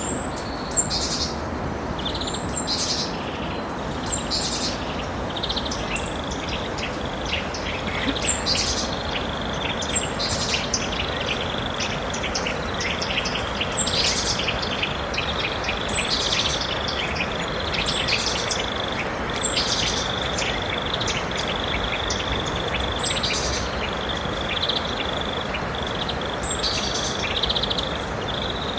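Wild birds chirping, with short high calls every second or two, over a rapid trilling buzz and a steady even hiss.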